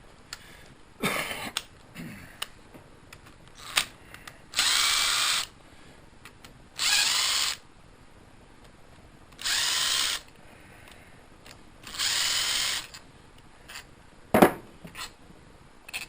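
Cordless impact wrench run in four short bursts of about a second each, spinning bolts off the engine, with a few sharp metal clanks of tools and parts between them.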